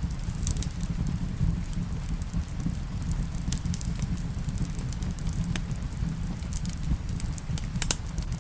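Wood fire crackling in a fireplace: scattered sharp pops and ticks, the loudest near the end, over a steady low rumble.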